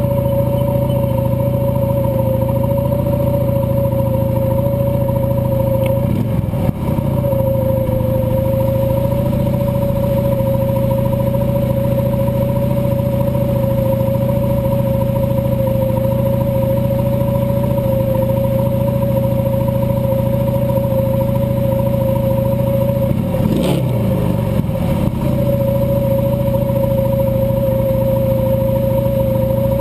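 Cruiser motorcycle engine running at a steady cruising speed, with its pitch briefly dipping and rising twice, about six seconds in and again near the end.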